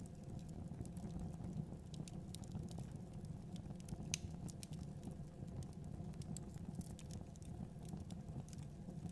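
Wood fire in a fireplace burning, with a steady low rumble and irregular sharp crackles and pops, the loudest one about four seconds in.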